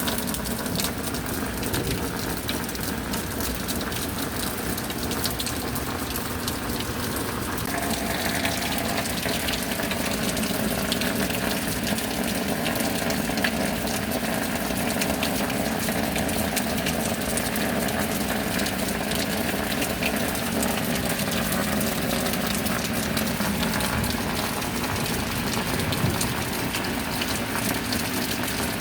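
Steady heavy rain with water pouring and gushing; the sound grows a little brighter about eight seconds in.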